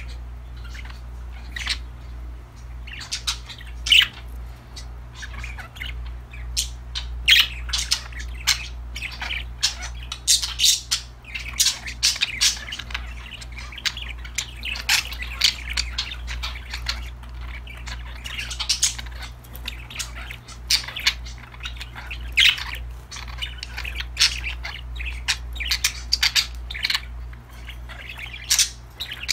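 A group of budgerigars chirping, squawking and chattering continuously in quick, irregular calls, over a steady low hum.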